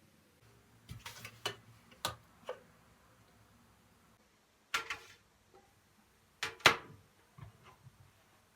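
Household objects being handled and set down: a scattered series of light knocks and clicks, with the loudest pair about two-thirds of the way through.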